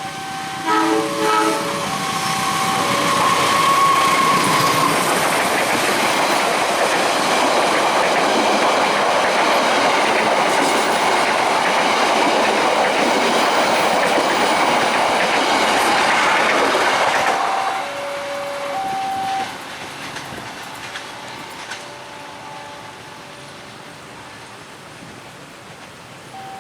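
A train passing over a level crossing, its wheels clattering on the rails for about fifteen seconds before the sound stops abruptly. Before and after the train, the crossing's electronic warning alarm plays as a repeating pattern of steady tones.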